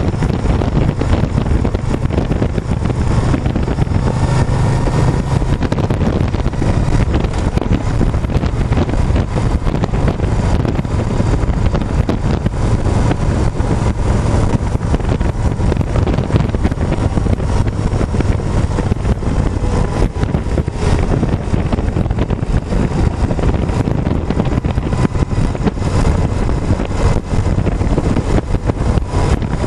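Wind rushing over the microphone with a motorcycle engine running underneath at a steady road speed.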